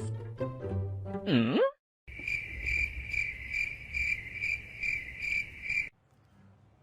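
A snatch of music ends with a quick falling glide, and after a short gap crickets chirp steadily in even pulses about twice a second for about four seconds, then cut off abruptly. This is the stock comic "crickets" sound effect.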